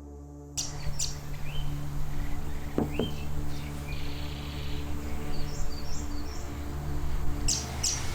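Birds chirping and calling in short, scattered notes over background music with a steady low drone; a burst of chirps comes near the end.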